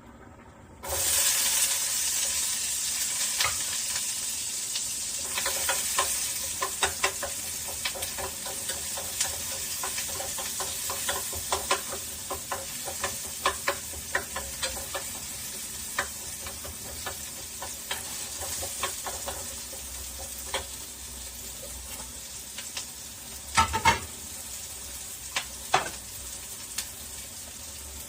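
Food going into a hot oiled pan about a second in and sizzling, loudest at first and slowly easing, while a spoon stirs it with frequent clicks and scrapes against the pan; a few louder knocks near the end.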